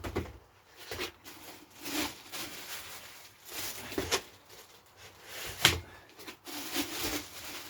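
Handling and unpacking of boxed power-rack parts: several separate knocks and clatters with rustling of packing in between, the loudest knock a little past halfway.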